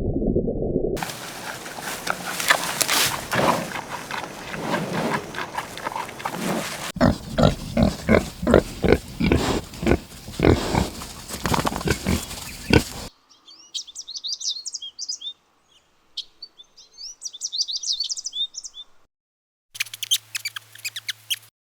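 A run of animal calls: loud, rhythmic grunting for the first dozen seconds, then high, quick chirping like small birds, then brief high squeaks near the end.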